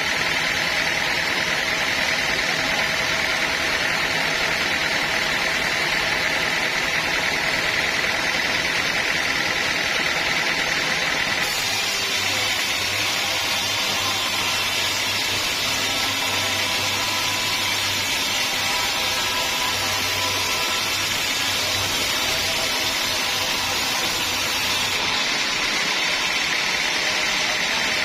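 Sawmill machinery running steadily, a saw cutting through a teak log, with a steady hiss near the top and a low hum from the motor. The sound changes abruptly about a third of the way in and again near the end.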